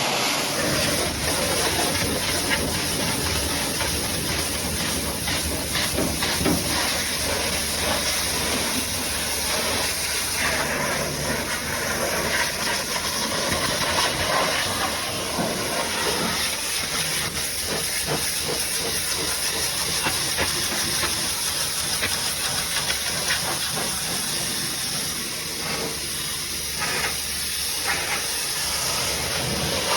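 High-pressure washer jet spraying water, a steady loud hiss with small shifts as the spray moves.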